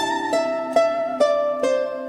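Calm instrumental music: a plucked zither playing a slow melody, one note at a time, with about four notes each left to ring over lower sustained tones.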